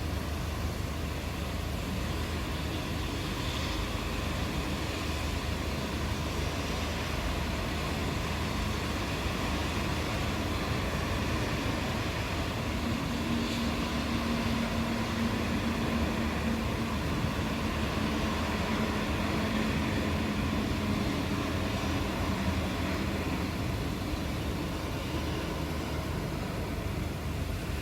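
Steady rain falling, an even hiss with no thunder. Partway through, a faint low steady hum rises under the rain for about ten seconds and fades.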